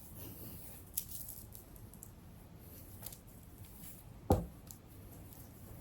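Quiet handling noises of hair and a fabric scrunchie, soft rustling with a few small clicks and one short, louder knock about four seconds in.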